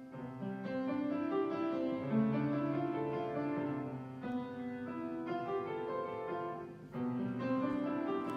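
Keyboard instrument playing slow, sustained chords, changing chord about every two seconds.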